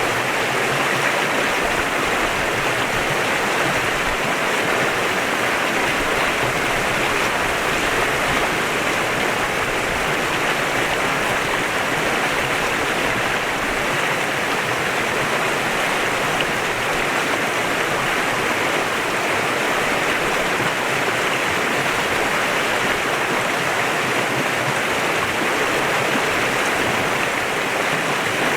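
A mountain stream rushing steadily over rocks, a continuous even rush of water.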